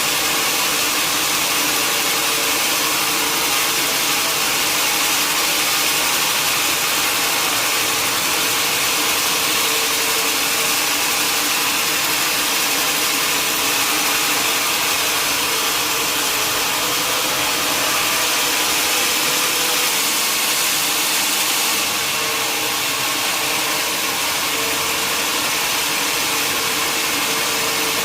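Sawmill machinery running steadily: a dense, even hiss with a steady hum underneath, shifting slightly about two-thirds of the way through.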